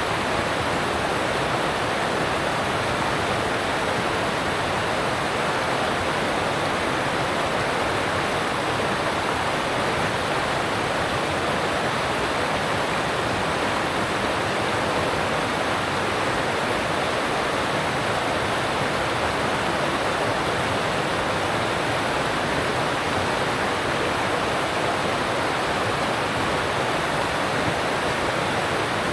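Alpine mountain stream rushing over rocks: a steady, even rush of water that does not change.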